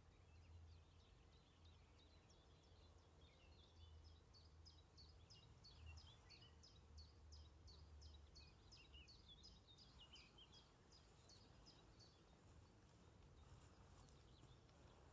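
Faint background birdsong: a long run of quick, high, repeated notes, about three a second, that stops about twelve seconds in, over a faint low rumble.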